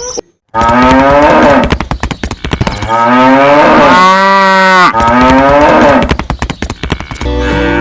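A cow mooing: three long moos in a row, each rising and then falling in pitch.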